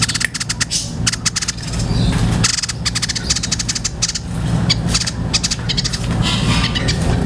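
White-breasted babbler (tepus dada putih) singing in fast bursts of sharp, high chattering chips, over a steady low rumble.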